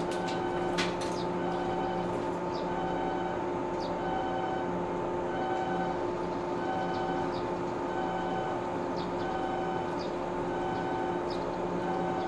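JR West 103 series electric train standing with its equipment humming steadily. A repeating two-tone electronic signal sounds over the hum.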